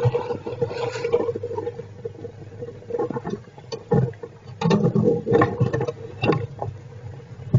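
Squirrels shifting in their nest box, in irregular bursts of rustling and scratching against the bedding and wood, with sharp clicks among them. A steady electrical hum runs underneath.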